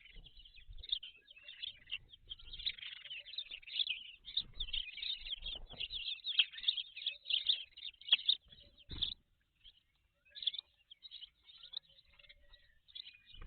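Small birds chirping in a rapid, dense chorus of high notes, with a short lull about nine seconds in. A few dull low thumps are mixed in.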